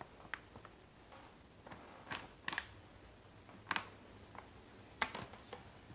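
Faint, scattered handling noises: about five short clicks and light rustles a second or so apart, with quiet between them.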